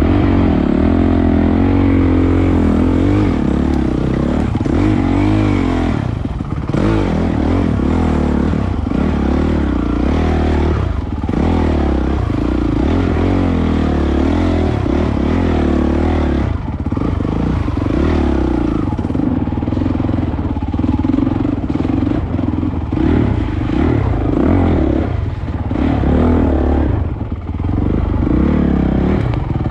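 Single-cylinder four-stroke engine of a Honda 450 enduro motorcycle pulling through deep mud, its note rising and falling as the throttle is worked, with brief dips several times. Rattles and knocks from the bike over the ruts come through underneath.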